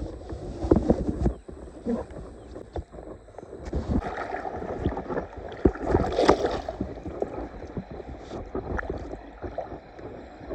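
Irregular rustling and knocking of a camera carried in a pants pocket, rubbing against fabric as the wearer moves; it starts abruptly.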